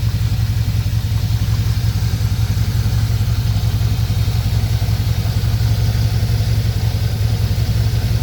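1965 Chevrolet C10 pickup's engine idling steadily.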